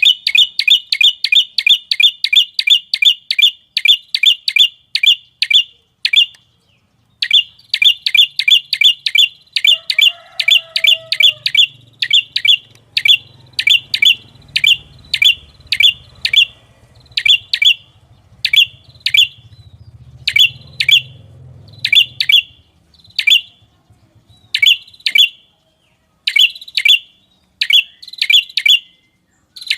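A small songbird giving a long series of sharp, high chip calls, about three a second at first, then after a short break about six seconds in, spaced out to roughly one or two a second.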